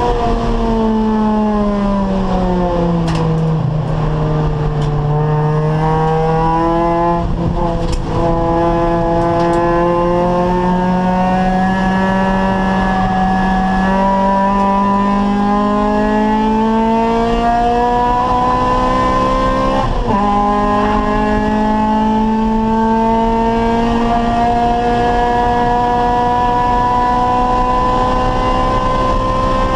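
Acura Integra race car's four-cylinder VTEC engine under racing load. The engine pitch falls over the first few seconds as the car slows, then climbs steadily through the revs. It drops sharply at an upshift about two-thirds of the way in and climbs again, with another shift near the end.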